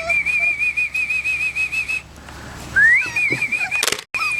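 Young puppies whining: long, high, wavering cries. One cry runs for about two seconds, and after a short pause a second rises in and holds to the end.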